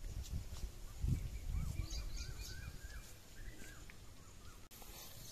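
Birds chirping in a run of short rising-and-falling calls, over a low rumble in the first two seconds.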